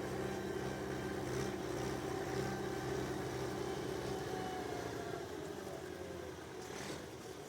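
A tractor engine running steadily; over the last couple of seconds its pitch falls and it grows slightly quieter.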